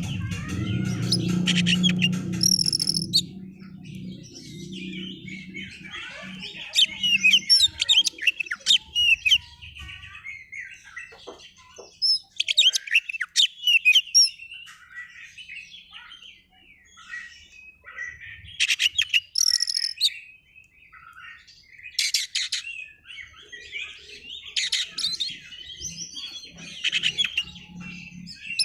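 Oriental magpie-robin (kacer) singing in full voice: bursts of rapid, varied chirps and whistles with short pauses between phrases. A low hum lies under the first few seconds.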